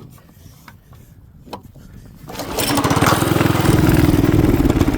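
Small single-cylinder 212 cc minibike engine. It is quiet with a few clicks at first, then about two seconds in it comes up into a loud, fast-pulsing run that holds to the end.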